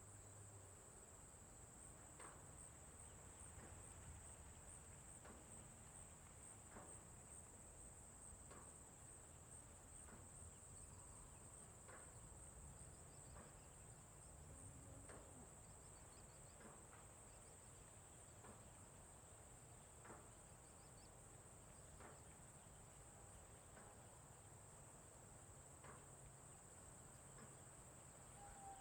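Faint, steady, high-pitched insect trilling, cricket-like, running without a break, with soft ticks about every two seconds and a low rumble beneath.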